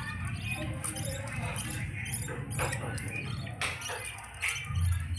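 Budgerigar chicks making squeaky begging chirps and short sharp squawks, the sounds of chicks being fed by the mother budgie. A low rumble runs underneath and swells briefly near the end.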